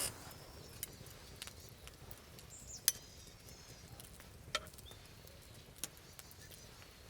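Wood campfire crackling with a few sharp, irregular pops over a quiet background, and faint bird chirps about two and a half seconds in.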